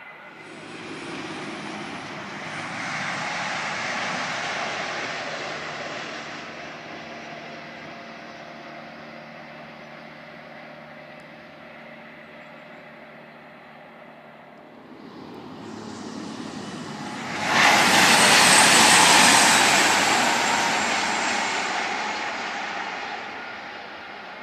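Diesel passenger trains passing at speed. A softer rumble rises and fades over the first few seconds. About 17 seconds in, a fast diesel express unit passes close with a loud, sudden rush, then fades away as it recedes.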